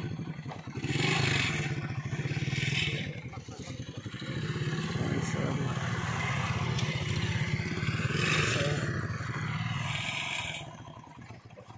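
A vehicle engine running steadily. Several short bursts of hissing, scraping noise come over it, and it dies away about ten and a half seconds in.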